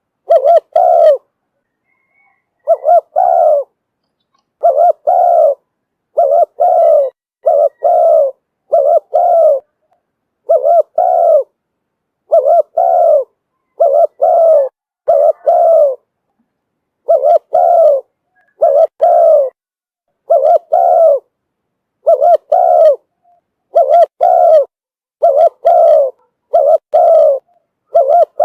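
Spotted dove cooing over and over in short phrases of mostly two notes, repeating every second or two: a decoy dove's call of the kind used to lure wild spotted doves.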